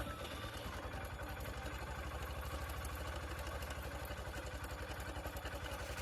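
An engine idling steadily, with an even low pulsing rhythm.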